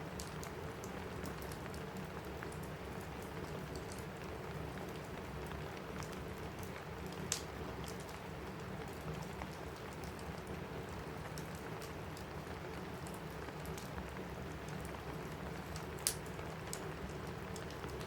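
Steady rain with a wood fire crackling in a fireplace. Small scattered crackles run throughout, with two louder sharp pops, one about seven seconds in and one near the end.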